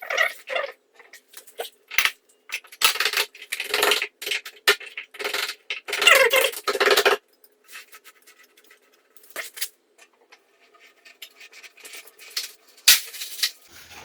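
Sheet-metal chimney damper and stove-pipe parts clinking and scraping against each other as the damper is fitted, a series of irregular metallic clatters that are busiest in the middle, with one sharp clink near the end.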